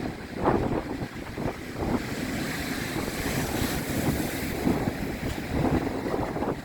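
Strong wind buffeting the microphone in gusts, over the wash of waves breaking on the shore.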